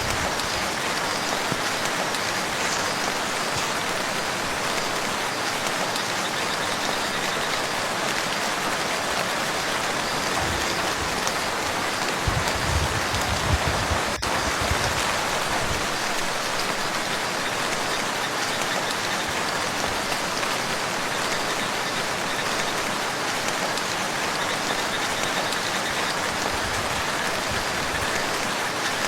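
Steady rain falling on a lake, an even hiss of drops. A little before halfway there are a few seconds of low rumbling.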